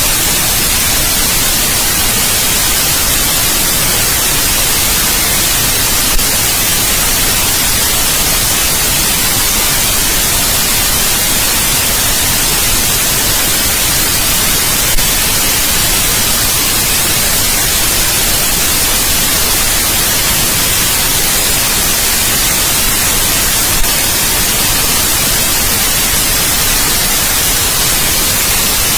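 Steady white noise: an even, unbroken hiss, strongest in the treble, with three faint ticks roughly nine seconds apart.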